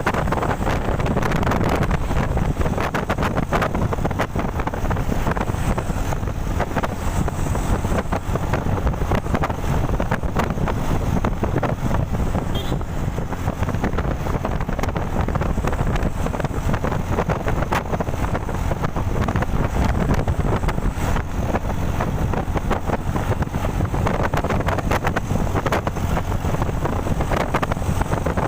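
A truck on the move: steady engine and road noise, with wind buffeting the microphone.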